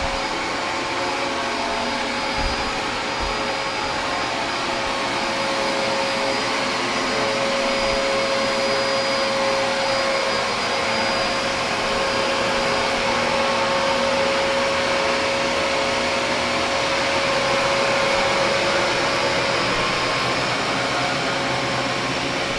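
Dyson vacuum cleaner running steadily while vacuuming, a constant motor whine over the rush of air, with two low bumps about two and a half seconds in.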